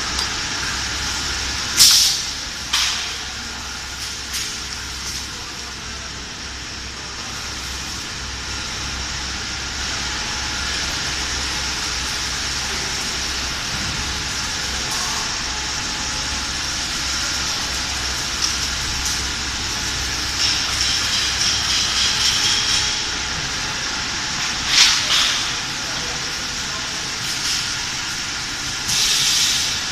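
High-frequency PVC tarpaulin welding machine running with a steady hum, with short sharp hisses of compressed air a few times, about two seconds in, near the middle-late part and near the end.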